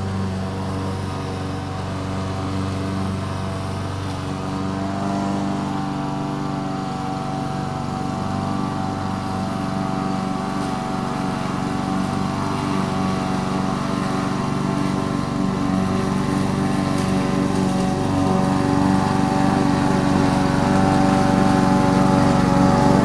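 Lawn mower engine running steadily while cutting grass, growing gradually louder as the mower comes closer.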